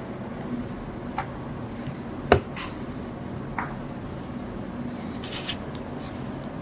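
Clicks and knocks of small parts being handled, with one sharp knock a little over two seconds in and a brief scrape near the end, over a steady low hum.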